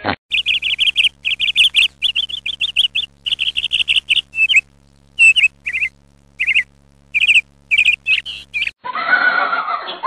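Bird chirping in quick runs of high notes, broken by short pauses; the chirping stops near the end, where a different, lower sound takes over.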